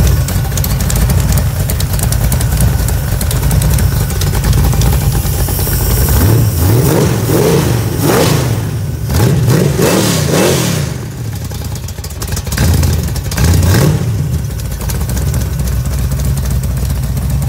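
402 cubic-inch big-block Chevrolet V8 running through open headers: it idles, is blipped several times in quick succession about six seconds in, is blipped twice more a little later, then settles back to idle.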